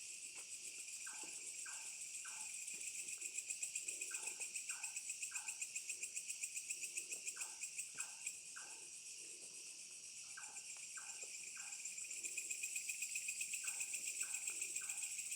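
A night bird calling in repeated groups of three short falling notes, a group about every three seconds, over a steady, high-pitched, fast-pulsing chorus of crickets.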